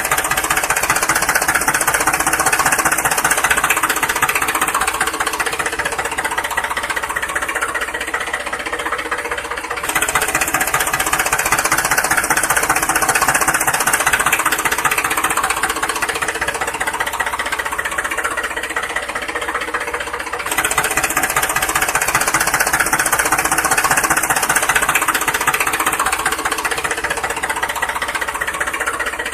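Small motor running steadily with a fast rattling knock.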